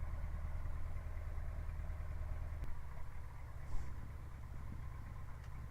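Light aircraft's piston engine running steadily at low power; about two and a half seconds in its low drone drops and changes as power is reduced. The pilot says this engine is running rough and losing power.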